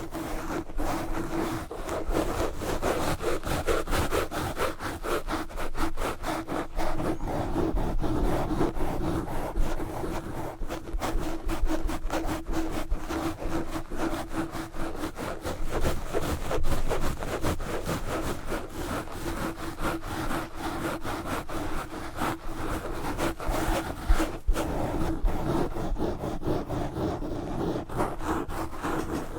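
Knitted wool gloves scratching and rubbing fast and hard over a Blue Yeti microphone close up, a dense unbroken run of rapid scratching strokes.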